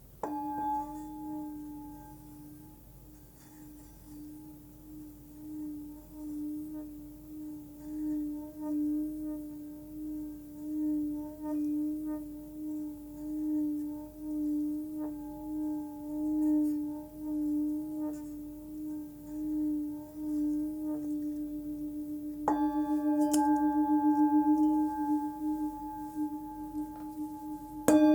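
A 14 cm Nepalese singing bowl tuned to about 298 Hz (D) rings with a sustained fundamental and higher overtones. It is struck, then the tone swells and wavers in slow pulses, as when the rim is rubbed with a stick. About 22 seconds in it is struck again, louder and brighter.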